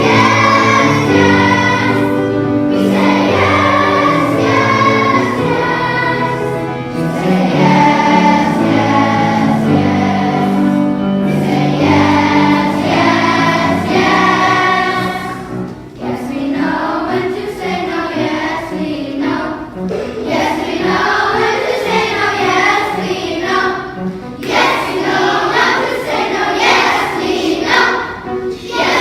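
Children's choir singing a song over instrumental accompaniment. About halfway through, the accompaniment thins to a light, regular beat under the voices.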